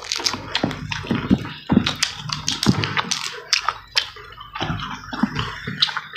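Wet chewing and lip-smacking with many quick clicks as spicy chicken knuckle cartilage and rice are eaten.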